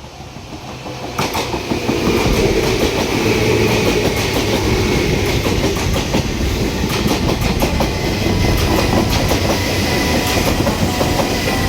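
Electric train running on the track: a dense clatter of wheels over the rails with a faint steady whine, swelling about a second in and then holding loud.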